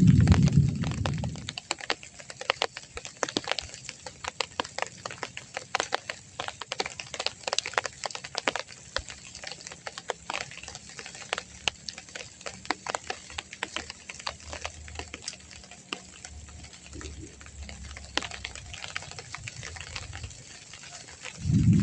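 Rain falling, with many raindrops tapping irregularly and close by. A short, loud low rumble sounds at the very start.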